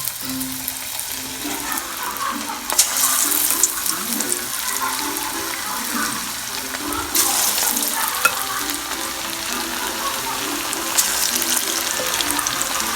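Cornflour-battered chicken pieces deep-frying in hot oil in a pan: a steady sizzle and crackle that swells louder a few times.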